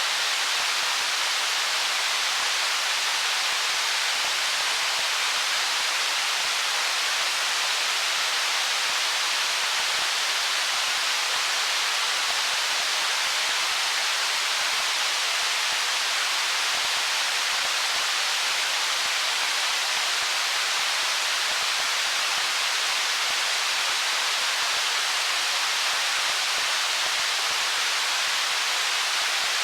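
Stream water flowing over stones, a steady, even rush of water with its sound mostly in the upper range and little low rumble.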